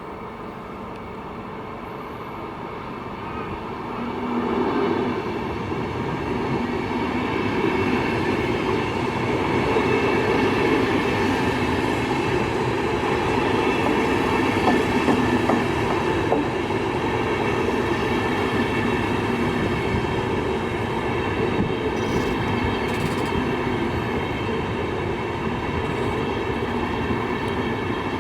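A train drawing close, growing louder over the first several seconds and then running steadily, with several steady whining tones over the rail noise.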